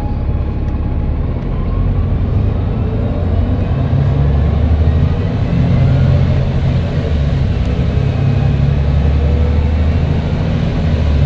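Volvo B7TL double-decker bus's six-cylinder diesel engine running under load through its Voith automatic gearbox: a loud, steady low drone that shifts in level a few times, with a faint turbo whistle rising in pitch above it.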